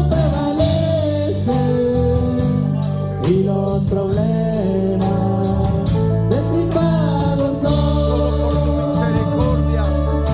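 Live gospel worship music: held instrumental chords under singing voices, with a quick steady high-pitched percussion beat.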